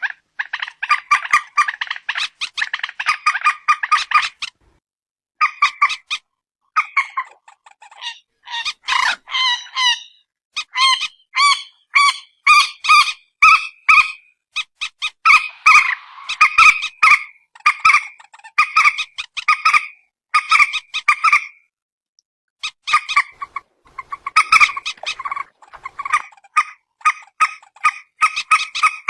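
Rapid series of short, harsh, honking calls from the rail that Indonesian bird keepers call peruk or mandar batu, repeated over and over with a few brief pauses.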